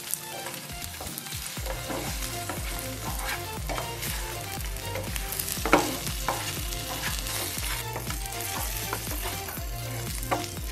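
Fried chicken wings sizzling in oil in a non-stick pan on a low flame, stirred with a wooden spatula that scrapes and knocks against the pan, with one louder knock a little past halfway.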